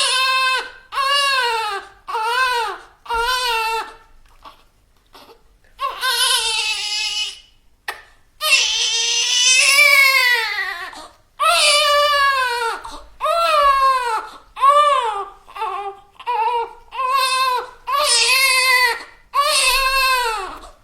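Baby crying: a run of short, rising-and-falling wails, a brief lull with small whimpers about four to six seconds in, then a long, loud wail and another run of short cries.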